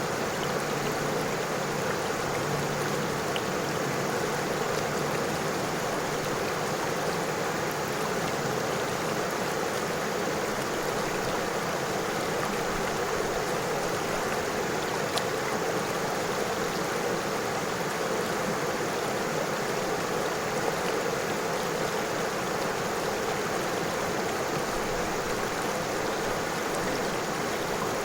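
A river flowing over stones, a steady rushing and babbling of water.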